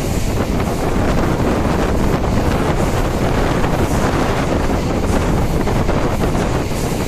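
Kolkata suburban electric local train running, heard from on board: a loud, steady rush of running noise with wind buffeting the microphone.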